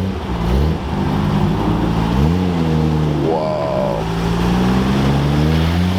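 Nissan Skyline GT-R R34's RB26 twin-turbo straight-six running, with a couple of short throttle blips. In the second half its note rises slowly and steadily as the car moves off.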